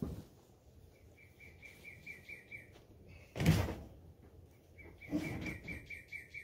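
A bird sings a rapid trill of evenly spaced chirps, about five or six a second, twice: first about a second in, then again near the end. About three and a half seconds in comes a loud, sudden thump, the loudest sound, with a smaller rustling knock a second and a half later.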